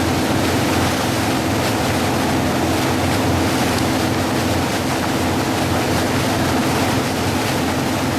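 Motorboat engine running steadily under way, a constant drone with a held tone, mixed with wind on the microphone and water rushing past the hull.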